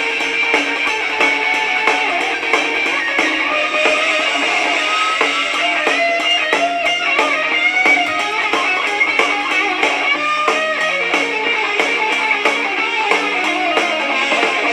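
Instrumental break of a blues-rock song, led by guitar playing lines with sliding notes over the band's accompaniment, with no vocals.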